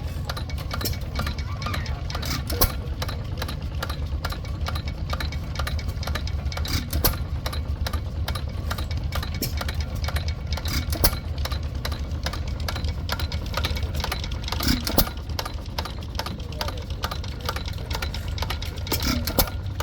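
Antique hit-and-miss stationary engines running: a steady low drone under frequent sharp clicks and knocks.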